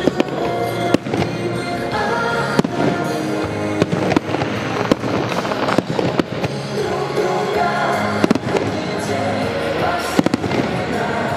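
Aerial fireworks shells bursting in sharp bangs with crackle, irregularly about every second or two, over steady music.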